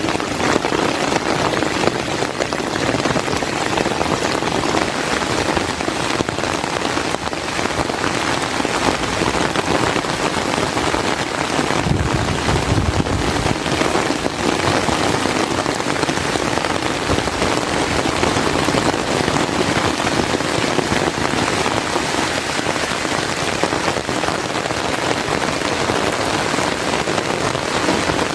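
Heavy rain falling steadily, a dense even hiss of drops on surfaces, with a brief low swell about twelve seconds in.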